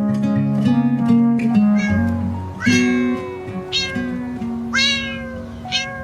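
A cat meowing several times, short bending calls from about two seconds in, over background music.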